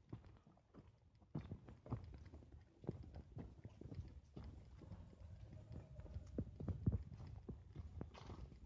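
Faint, irregular footsteps on a hiking trail: soft thuds and knocks at an uneven pace.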